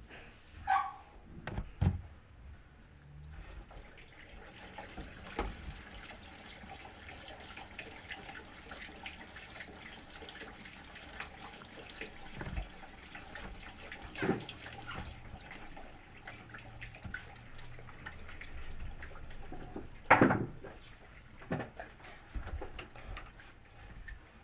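Water running and splashing in a washing machine, starting a few seconds in and stopping about halfway through. Scattered knocks throughout, the loudest about twenty seconds in.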